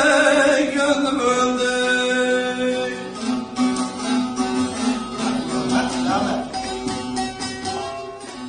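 Instrumental passage of a Turkish folk song: a plucked string instrument plays the melody over accompaniment, after a held sung note fades out in the first second.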